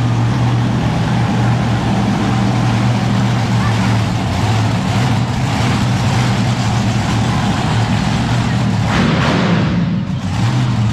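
Monster truck engine running loud and steady, with a brief surge about nine seconds in.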